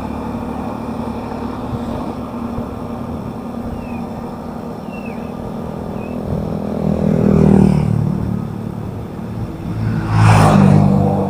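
Road traffic heard while riding: a steady engine hum with rushing noise, and two vehicles passing close, the louder passes about seven and ten seconds in.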